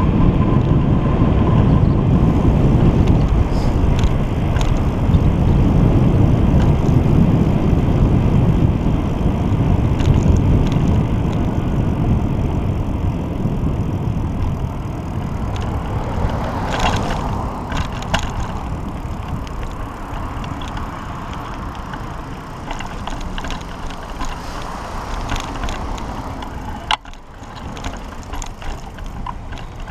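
Wind rushing over the microphone of a camera on a moving pedal bicycle, with tyre and road noise. The rush is loudest at first and eases in the second half, with scattered clicks and rattles and a sharp knock near the end.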